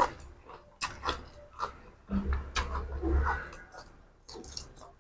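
A person chewing and smacking food close to the microphone in irregular wet clicks, with a few dull low thumps.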